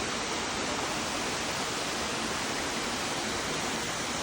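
Steady rush of a waterfall, an even unbroken hiss of falling water.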